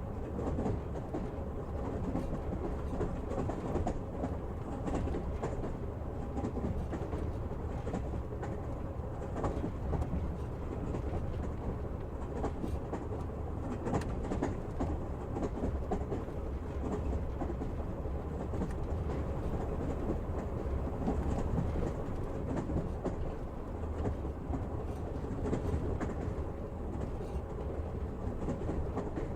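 Passenger train riding along the rails, a steady rumble with the clickety-clack of the wheels over the rail joints.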